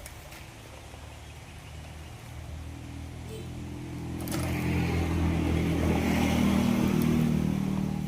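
An engine running, growing louder from about two seconds in, holding steady, then easing off near the end.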